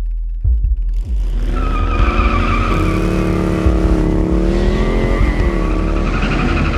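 Motorcycle engine running hard at speed, its pitch rising and falling, with a tyre-squeal-like screech over a heavy low rumble.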